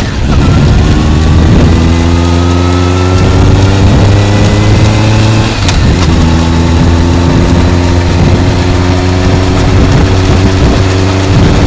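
Honda CB motorcycle's exhaust note through a titanium full exhaust system, a fairly mild tone, while riding: the engine pitch climbs slowly under acceleration, with a gear change about halfway through after which the pitch climbs again. Heavy wind noise on the microphone runs underneath.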